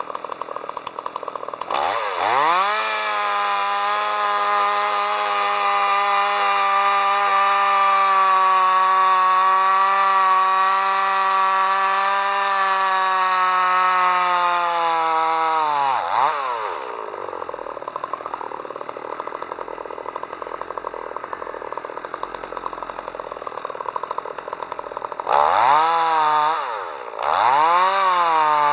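Chainsaw revved up to full throttle about two seconds in and held there, high and steady, for about fourteen seconds. It then drops back to idle and is revved twice more near the end.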